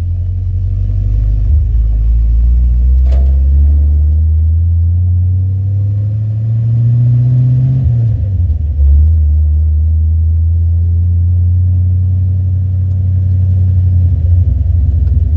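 Chevy 350 V8 in a 1967 Chevrolet Bel Air running through a newly fitted full exhaust, a low steady drone. Engine speed climbs slowly for about four seconds, drops off sharply around the middle, then settles back to a steady run.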